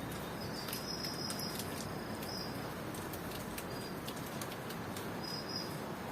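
Steady rain with scattered sharp drips. A cricket trills high and steady for about two seconds, then again briefly near the end.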